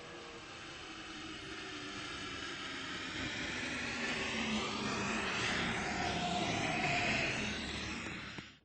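MP05 metro train approaching, a rushing noise that grows steadily louder over several seconds, then cuts off abruptly near the end.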